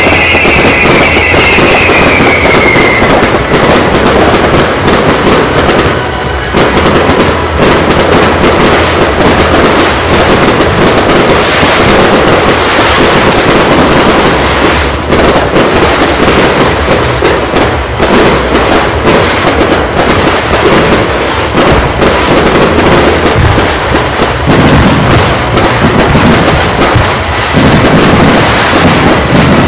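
Fireworks display in a continuous barrage: rapid, overlapping bangs and crackles from many shells bursting with hardly a break, typical of the finale. A falling whistle sounds for the first few seconds.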